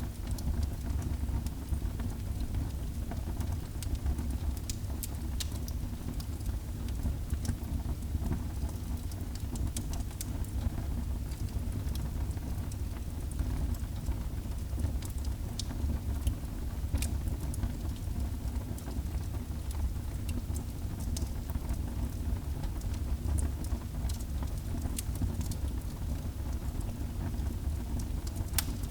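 Wood fire burning in a fireplace, with irregular sharp crackles and pops over a steady low roar.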